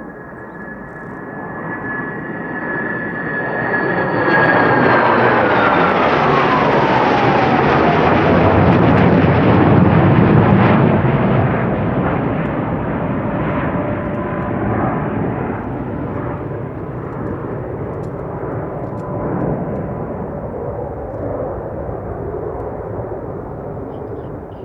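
A JASDF F-4EJ Phantom II's twin General Electric J79 turbojets passing overhead: a high whine that falls steeply in pitch as the jet goes by, with the roar loudest about five to eleven seconds in and then slowly fading.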